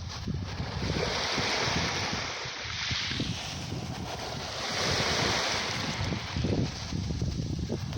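Sea waves washing and breaking on the shore, with wind buffeting the microphone. The surf swells about three seconds in and again a couple of seconds later.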